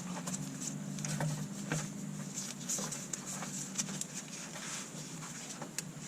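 Scattered small clicks and scuffs of hands gripping and twisting at a stuck spin-on oil filter on a 2018 Ford F-150 5.0, which is not coming loose by hand. A low steady hum sits under them until about four seconds in.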